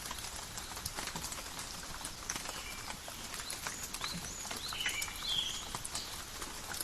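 Steady light forest rain, with many separate drops pattering and dripping on leaves, and short high chirps scattered through it, including a few buzzy notes about five seconds in.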